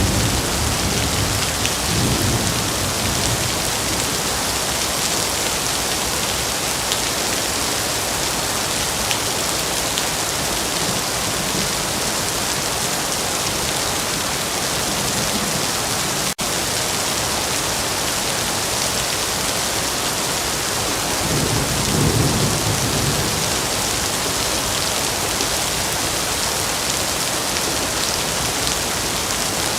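Steady heavy rain, a dense even hiss. Low rolls of distant thunder come at the start and again about three-quarters of the way through.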